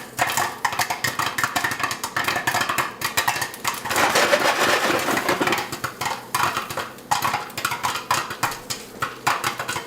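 Popcorn kernels popping in a lidded pot on a stove, many sharp pops close together, with the pot and its glass lid rattling; the pops come more spread out near the end.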